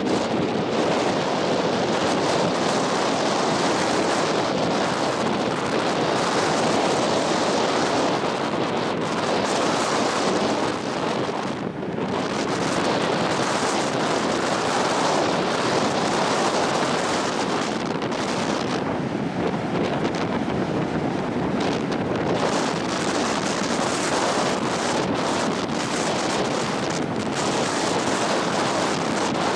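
Strong wind buffeting the microphone in a loud, steady rush, with surf breaking on a beach underneath. The wind eases briefly about twelve seconds in.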